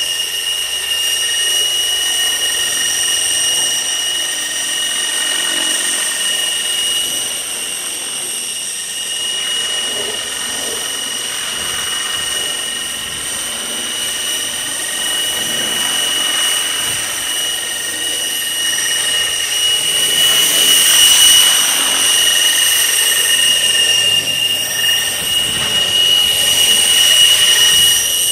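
Outrage Fusion 50 nitro RC helicopter in flight: a steady high-pitched whine from its engine and rotors that swells louder about two-thirds of the way through and again near the end.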